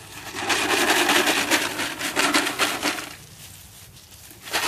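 A dense, rapid rattling clatter of many small hard clicks for about three seconds. It stops, then starts again near the end.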